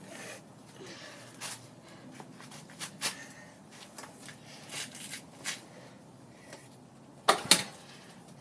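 Kickstart attempts on a 110cc dirt bike: scattered clicks and knocks, then two loud clunks near the end, with the engine never catching.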